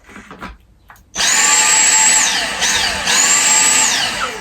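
Dyson V6 cordless stick vacuum's motor switched on twice: each time it spins up quickly to a loud high whine, holds for about a second, then winds down as the trigger is let go. The first start comes about a second in.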